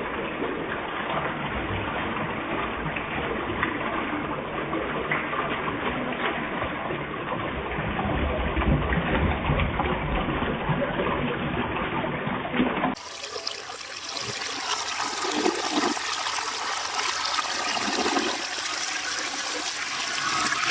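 Vortens Vienna toilet flushing: a steady rush of water. About thirteen seconds in the sound changes abruptly and turns brighter, and water keeps running.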